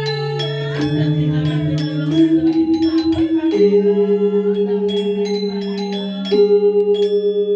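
Balinese gamelan playing: bronze metallophones sustain long, shimmering tones with a pulsing beat between paired notes, shifting to new notes several times under rapid bright metallic strikes.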